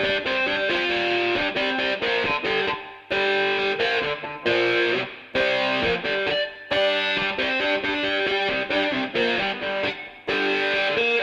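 Background music: a distorted electric guitar playing a stop-start rock riff, its phrases broken by short gaps.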